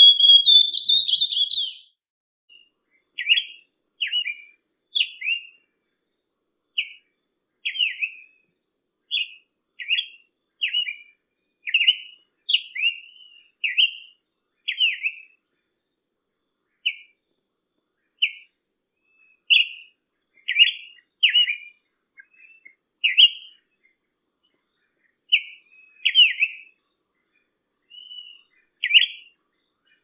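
An Amazonian grosbeak's whistled song ends about two seconds in. After it, a summer tanager gives short, sharp call notes about once a second, some of them doubled.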